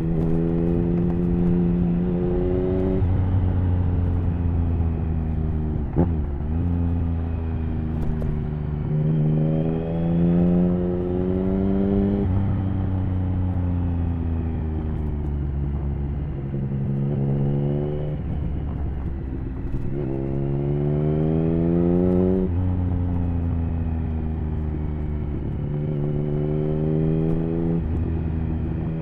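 Triumph Speed Triple 1050's three-cylinder engine through an HP Corse Hydroform exhaust, ridden hard. The revs climb and then drop sharply several times, as at gear changes, with steadier running in between. A single sharp pop comes about six seconds in.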